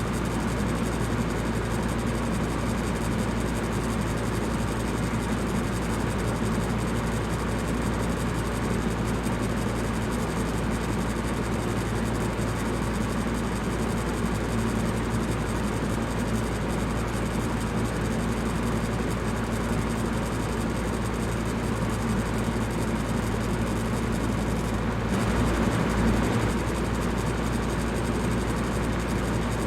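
Electric fan running steadily: an even whooshing rush of air over a low motor hum, with a brief slight swell about 25 seconds in.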